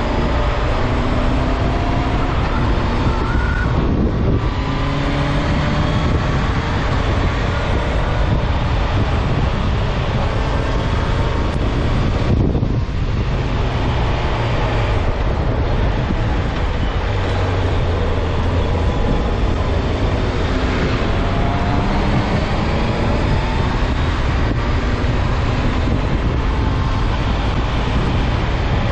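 Honda CB650F inline-four engine pulling under acceleration, with heavy wind rush on the microphone. The engine note climbs, breaks off briefly at quickshifter upshifts about four and twelve seconds in, then climbs again.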